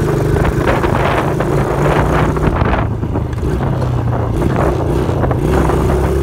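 Dirt bike engine running under way, its pitch shifting a little as the throttle changes.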